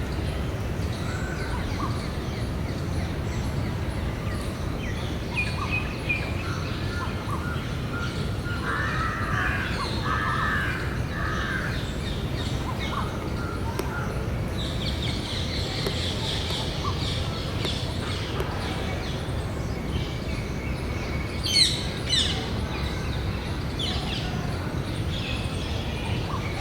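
Several birds calling over a steady low background rumble, with scattered chirps and a few arched calls near the middle. The loudest sounds are two sharp, sweeping shrieks about 21 seconds in.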